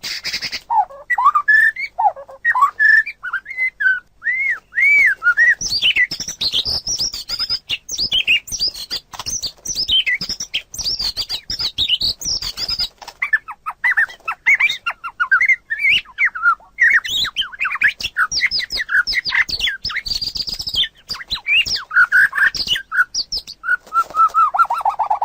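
Songbirds singing continuously, the song of the common iora and the white-rumped shama: fast, varied whistled phrases and trills, with a brief pause about halfway through.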